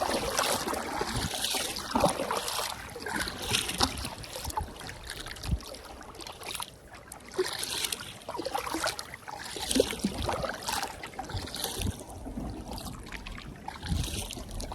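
Kayak paddle strokes: the blades swish and splash into the water at an uneven pace, every second or two, with water trickling off them and a few low knocks.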